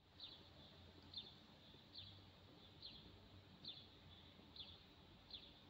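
A small bird calling faintly: a short, high chirp that falls in pitch, repeated evenly about once a second, over a faint low background hum.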